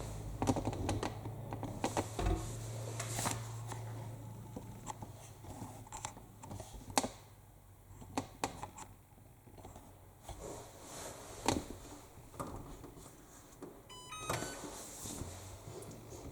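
Scattered clicks and knocks of laundry being loaded into an AEG front-loading washing machine, with a short run of electronic beeps from the machine about fourteen seconds in, as it is switched on.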